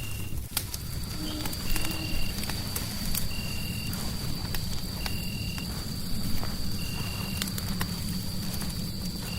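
Fireplace crackling, with scattered sharp pops over a low rumble. Mixed in are a short high chirp that repeats about every second and a half and a steady high tone that comes in just after the start.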